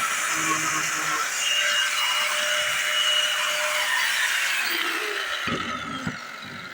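Handheld power tool running and cutting slots into the house wall, a steady high whine over hiss; about five seconds in the whine falls and fades as the tool spins down.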